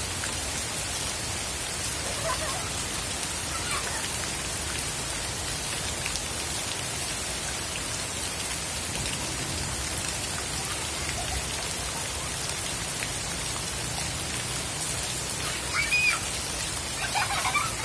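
Heavy rain pouring steadily onto a flooded path and garden foliage: a constant, even hiss of drops hitting standing water.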